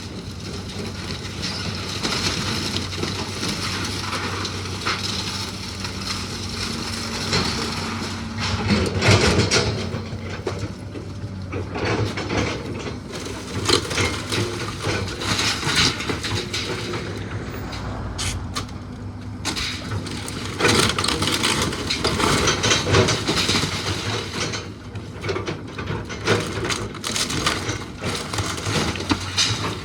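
A machine's engine running steadily while the rotten wooden house is pushed over, with irregular cracking and crashing of timbers, heaviest about nine seconds in and again a little past twenty seconds.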